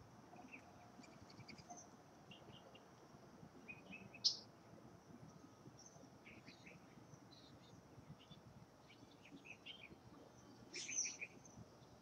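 Wild birds chirping: scattered short, high chirps, with a sharp louder call about four seconds in and a quick run of calls near the end.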